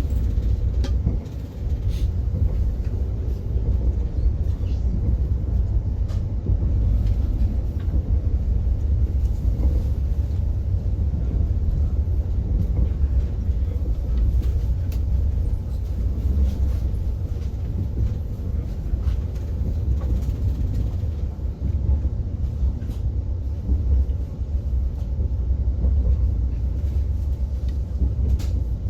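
Train running along the track, heard from inside the passenger car: a steady low rumble with faint clicks now and then.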